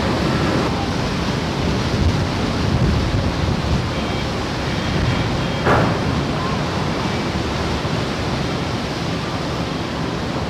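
Steady rushing of wind and sea water around a ferry, with a brief knock about six seconds in.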